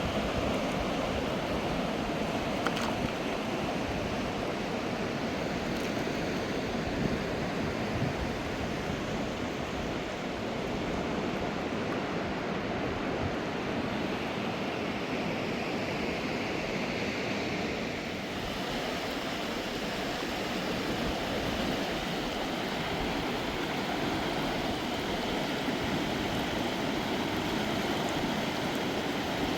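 Rushing water of a fast mountain river, a steady even noise.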